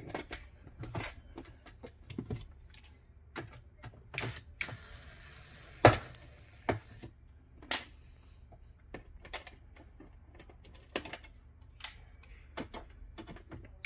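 Irregular small metallic clicks and taps of a screwdriver and stainless steel screws being handled and driven into a dishwasher door panel, with one louder knock about six seconds in.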